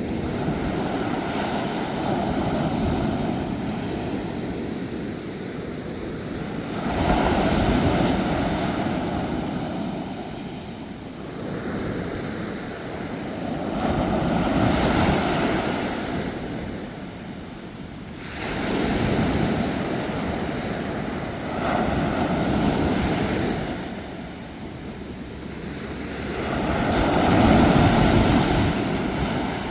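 Sea waves breaking and washing up the shore, a steady rush of surf that swells and ebbs about five times, each surge lasting a few seconds, the biggest one near the end.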